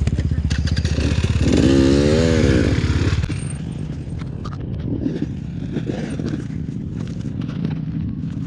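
Yamaha YZ85 two-stroke dirt bike engine revving hard, rising and falling in pitch, as the bike tries to pull its rear tire out of soft sand. About three seconds in the revs drop off sharply, and the engine keeps running low with scattered clatter.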